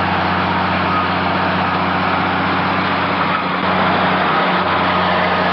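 A heavy vehicle's engine running steadily: a constant low hum under an even mechanical noise.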